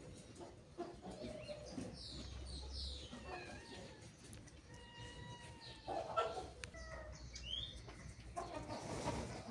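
Birds calling and chirping in the background, short falling and rising calls scattered throughout, with brief rustling about six seconds in and again near the end.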